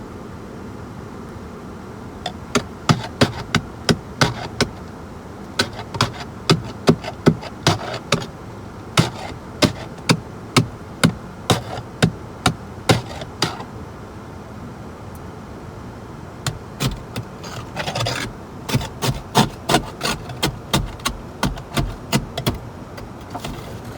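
Ice being knocked off with a hand tool after freezing rain: sharp strikes about two a second, then a pause of a few seconds, then a second run of strikes with a brief scrape partway through.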